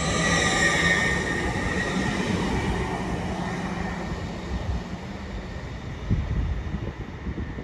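Passenger train running past and away, a whine from its motors sliding slightly down in pitch and fading over the first couple of seconds, then a rumble that dies away. Gusts of wind hit the microphone near the end.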